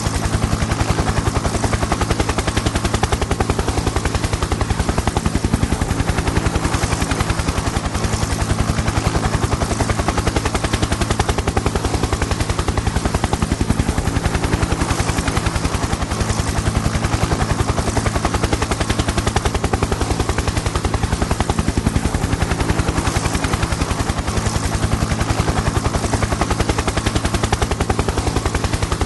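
Helicopter in flight, its rotor blades beating in a fast, steady chop over the drone of the turbine engine.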